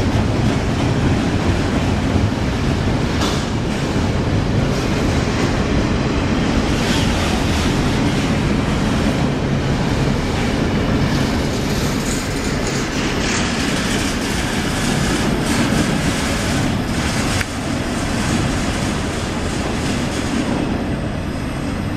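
Single-stack intermodal freight train's container-loaded well cars rolling past at track speed: a steady rumble of steel wheels on rail with occasional clicks at the rail joints, easing slightly near the end as the last cars pass.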